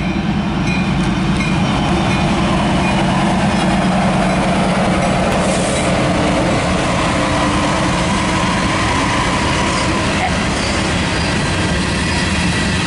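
A freight train passing close by: an EMD SD75I and a GE C40-8W diesel-electric locomotive running, their engines giving a steady low drone, followed by the rumble and clatter of tank cars' wheels on the rails.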